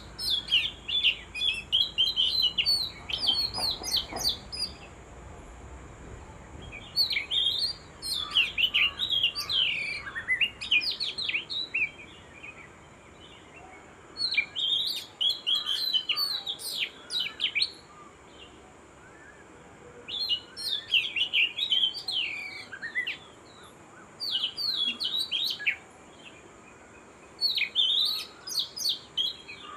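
Birds chirping in repeated bursts of quick high notes, each burst lasting a few seconds with short pauses between.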